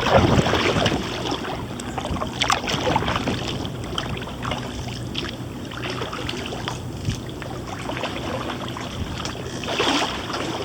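Kayak paddling: a paddle dipping into the water, with irregular splashes and drips.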